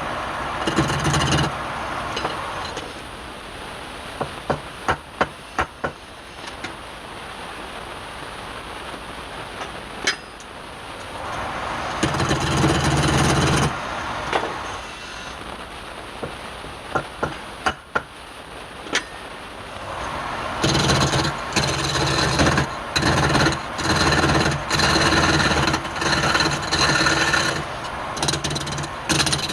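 Wood being turned on a lathe: a tool scraping and cutting the spinning wood in passes of a second or two, near-continuous in the last third. A few sharp taps come in small groups between the passes.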